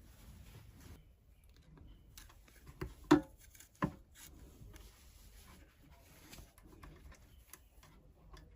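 Faint handling noises of hands working small wires and parts inside an electric pressure cooker, with three sharp clacks between about three and four seconds in, the middle one the loudest.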